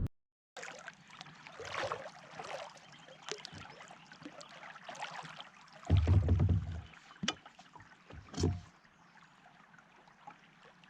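Water splashing and sloshing around a kayak, in short irregular splashes. There are two louder low bumps, about six seconds in and again near eight and a half seconds.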